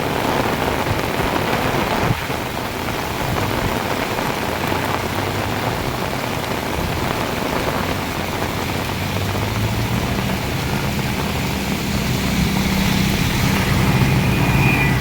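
Heavy rain pouring steadily. From about two-thirds of the way in, a motor vehicle's engine comes in under the rain and grows louder as it approaches.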